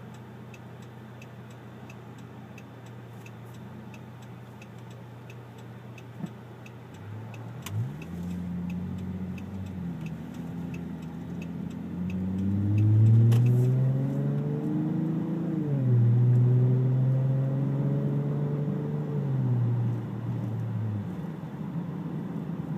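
Dodge Charger's 3.6 Pentastar V6 heard from inside the cabin, first idling steadily with a regular ticking about twice a second. About a third of the way in it pulls away and the engine note rises under acceleration, drops sharply at an upshift partway through, and climbs again before easing off near the end.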